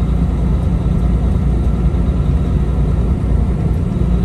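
Semi-truck's diesel engine running steadily under way, a low steady rumble with road noise.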